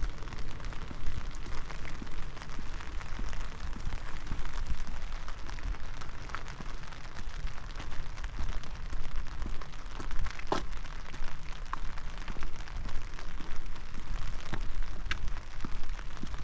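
Steady rain falling, an even hiss with scattered sharper ticks of individual drops, the clearest about ten seconds in, over a low rumble.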